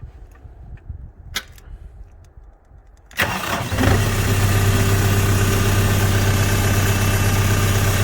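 Kubota two-wheel-drive tractor's diesel engine starting a little over three seconds in, then settling into a steady idle.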